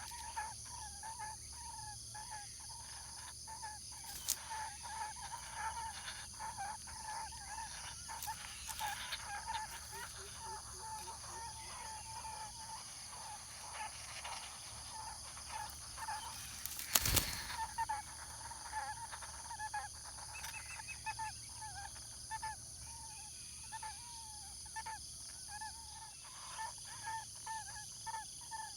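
A bird calling over and over in short notes, about two a second, over a steady high insect drone. One loud thump about two-thirds of the way through.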